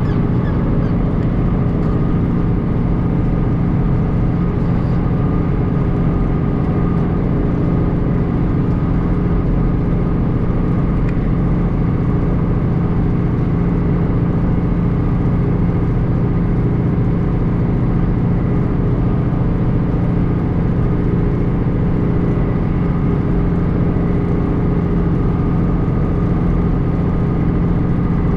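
John Deere 2940 tractor's diesel engine running steadily under load, driving a Kuhn GA 4220 rotary hay rake.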